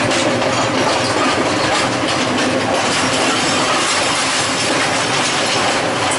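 A passenger train running steadily along the line: wheels and carriage giving a loud, even rumble and rattle, heard from an open carriage doorway.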